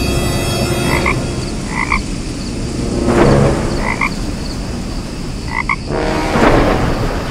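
Frog croaking: four short croaks, one to two seconds apart, over a steady background hiss, with two louder swells of noise about three and six and a half seconds in.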